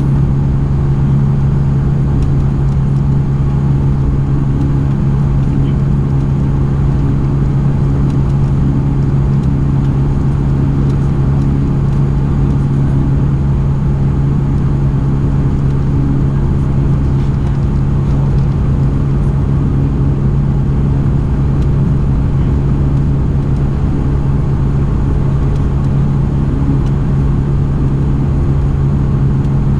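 Inside the cabin of a Dash 8-402 (Q400): its Pratt & Whitney PW150A turboprop engines and six-bladed propellers running, a loud, steady, low propeller drone with a constant hum over engine noise.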